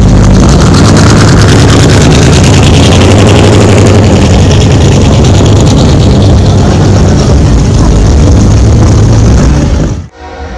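Vehicle engine idling loudly and steadily close by, with a rapid even pulsing from its exhaust; it cuts off abruptly near the end.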